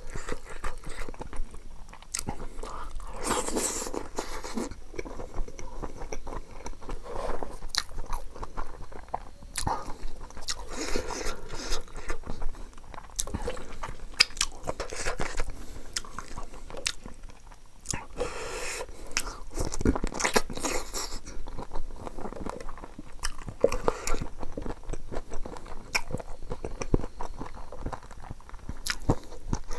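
Close-up eating sounds of a person eating chicken and mushroom curry with rice by hand: wet chewing, biting and lip-smacking with irregular crunches.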